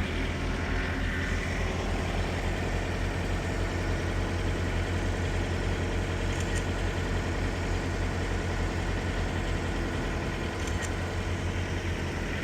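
Semi-truck diesel engine idling, a steady low even throb.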